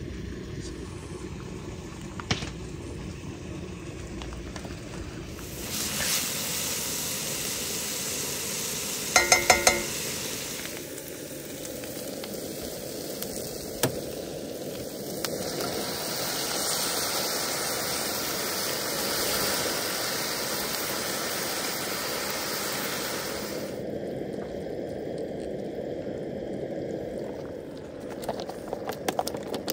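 Diced onions, peppers and garlic sizzling in a hot cast-iron skillet, with crushed tomatoes poured in partway through. The sizzle starts about five seconds in and dies down about six seconds before the end, with a quick run of sharp metallic clanks about nine seconds in.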